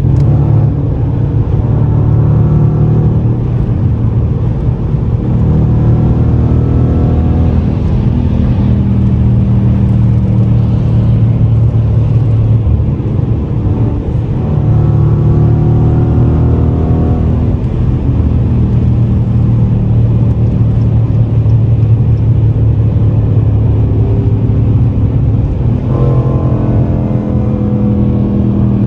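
Car engine running loud and close under load, its pitch rising several times as it accelerates.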